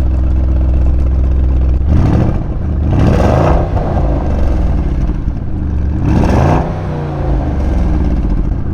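Audi RS Q8's twin-turbo V8 idling and revved twice, the engine note climbing and dropping back to idle each time, about two seconds in and again about six seconds in.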